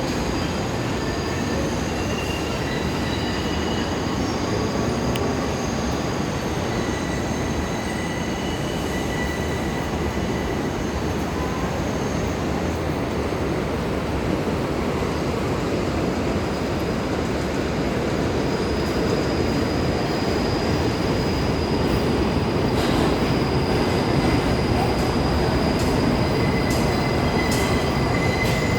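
New York City subway train running through the station, a steady rumble of wheels on rail with thin high-pitched wheel squeal that comes and goes and grows a little louder near the end.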